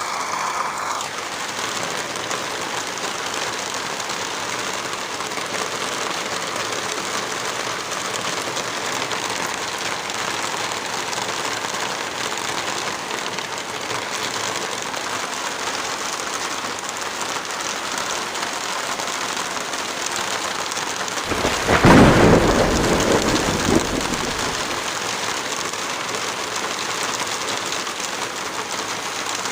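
Steady heavy rain falling, with a loud clap of thunder about two-thirds of the way through that rumbles on for two or three seconds before fading back into the rain.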